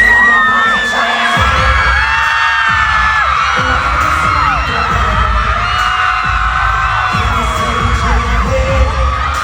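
Loud pop music through a concert sound system with a pounding bass beat, which kicks in about a second and a half in. Over it, a crowd of fans screams and cheers.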